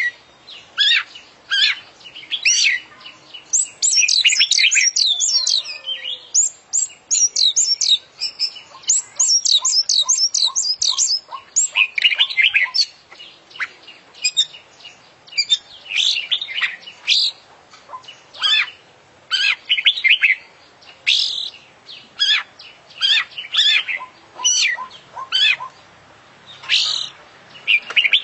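An Oriental magpie-robin (kacer) singing a loud, varied song of sharp chirps and whistles, packed with imitated calls of other birds. There is a fast run of rapidly repeated high notes in the first half, then separate repeated phrases.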